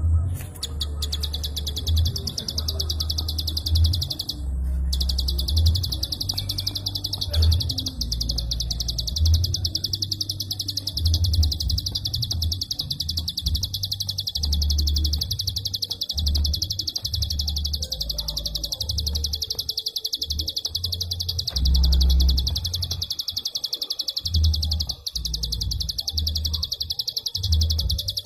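Prinia (prenjak) singing its rapid clicking 'klik' song: a dense, high-pitched run of clicks fired almost without pause, breaking off only briefly about five seconds in. An uneven low rumble runs underneath.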